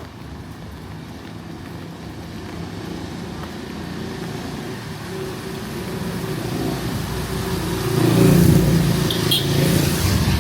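A motor vehicle's engine approaching along the street, growing steadily louder and loudest as it passes about eight seconds in.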